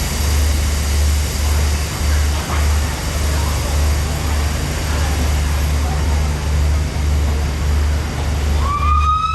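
Steady rumble with faint background voices, then near the end a train whistle starts: a single pitched blast that slides up quickly and then holds steady.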